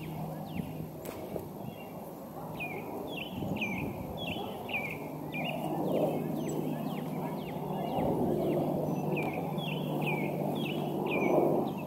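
A bird calling over and over with short falling chirps, two or three a second, over a steady low hum and a low outdoor rumble that swells a few times.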